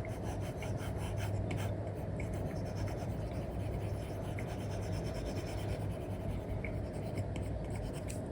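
Apple Pencil stylus nib scratching and stroking across a paper-like screen film on an iPad, with many small light taps. A steady low hum runs underneath.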